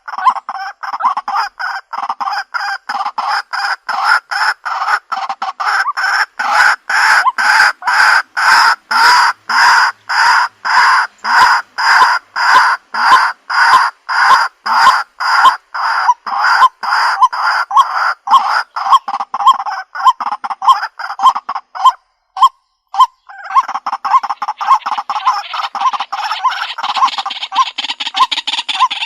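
White-breasted waterhen calling: a long, regular series of loud, harsh notes about two a second. It breaks off briefly near the end, then resumes as a quicker, denser run. This is the bird's call as played for a decoy lure.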